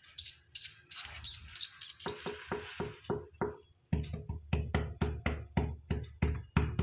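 Cockatiel tapping and pecking rapidly at a toy, a regular run of sharp knocks about four a second, each with a short ringing note. It starts about two seconds in, after a few faint clicks.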